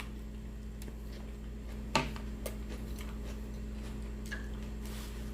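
Quiet eating sounds: a few faint mouth clicks and taps, one sharper click about two seconds in, over a steady low electrical hum.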